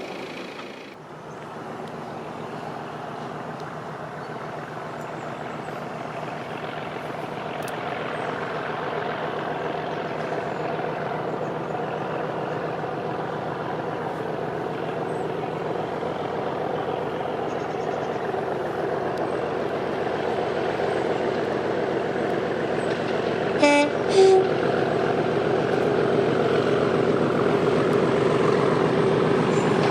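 English Electric Class 37 diesel locomotive working hard under power, its 12CSVT engine growing steadily louder as it approaches. Two short horn blasts come about three-quarters of the way through.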